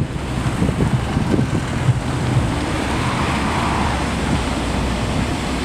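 Road traffic on a city street: a steady low rumble of cars, with one vehicle swelling past a few seconds in.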